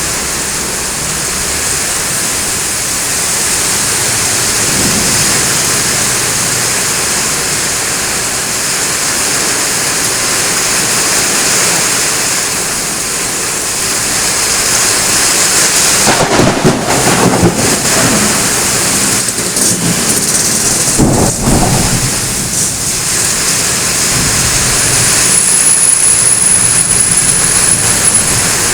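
Heavy rain falling steadily in a thunderstorm. Thunder rumbles through the rain twice, past the middle.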